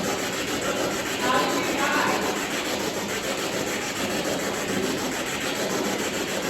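Spirit box sweeping radio static: a steady hiss chopped rapidly as it scans, with brief voice-like fragments a little over a second in.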